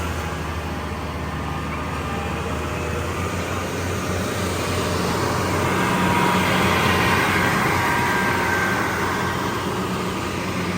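An engine running steadily, with a low hum and a noisy rush that grow a little louder around the middle.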